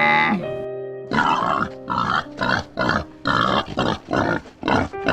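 A pig grunting in a quick series of short, rough grunts, about two a second, over background music. Before the grunts, a held pitched call cuts off in the first half second.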